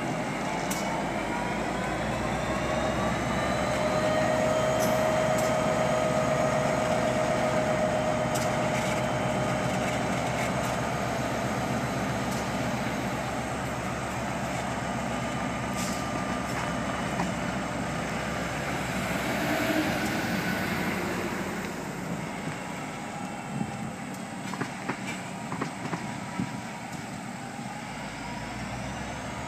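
Diesel freight locomotive running as it pulls a freight train past. Its engine sound fades after about twenty seconds, and then come irregular clacks of the car wheels over the rail joints.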